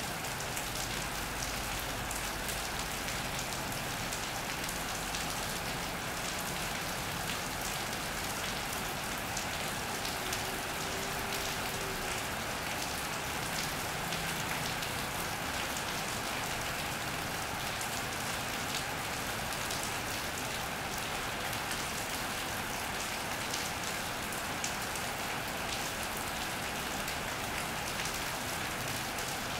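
Steady rain hitting an iron roof and wet paving: an even hiss flecked with individual drop ticks.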